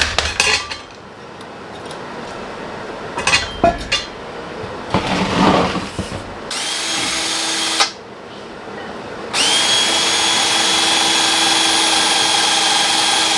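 Electric drill running at a steady pitch, likely drilling the mounting holes for the intercooler brackets: a short run about six and a half seconds in, then a longer one from about nine and a half seconds on. Before that come a few knocks and clanks of metal parts being handled.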